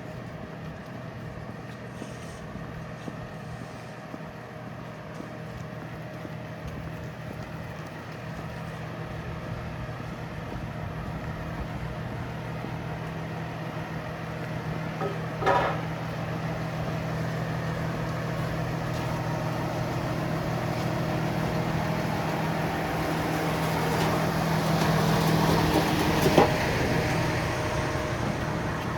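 A motor vehicle's engine running steadily with a low hum that grows gradually louder. One sharp knock comes about halfway through and another near the end.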